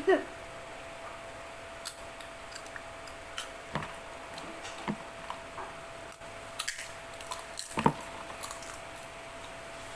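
Eating at close range: scattered small clicks, taps and crunches of chewing and handling food, busiest in a cluster a little past the middle, over a faint steady hum. A short falling squeak sounds right at the start.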